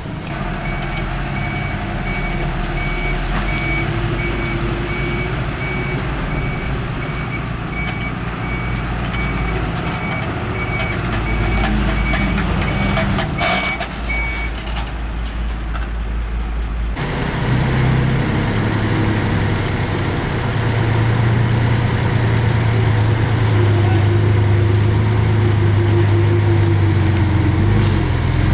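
Diesel earth-moving machinery running, with a reversing alarm beeping steadily at one high pitch through the first half. After an abrupt change about halfway, a diesel engine runs loud and steady under load.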